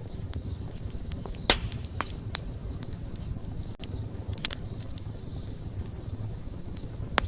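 Wood fire burning with a steady low rush, crackling and popping: scattered sharp snaps, the loudest about a second and a half in and another near the end.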